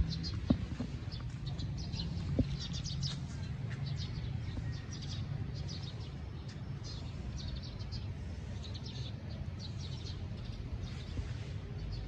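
Small birds chirping in quick repeated bursts over a steady low rumble, with a few sharp knocks in the first few seconds.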